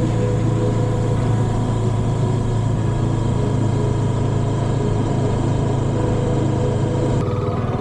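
Motorcycle engine running at a steady speed with a constant low hum; the sound changes abruptly near the end.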